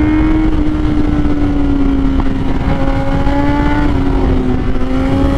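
Kawasaki Z800 motorcycle's inline-four engine running hard at a steady high pitch through a corner, sagging slightly with a brief dip about four seconds in, over loud wind rush on the microphone.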